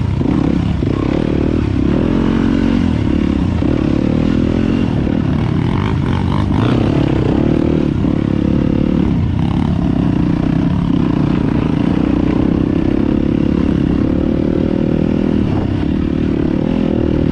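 Four-stroke dirt bike engine running at trail speed, its pitch rising and falling with the throttle.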